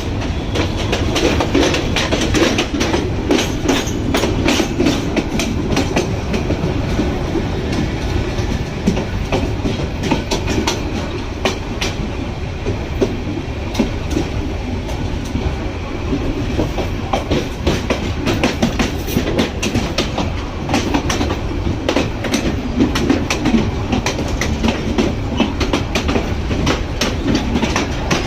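A train running along the track: continuous rumble and rattle with wheels clattering over the rails in many irregular sharp clicks.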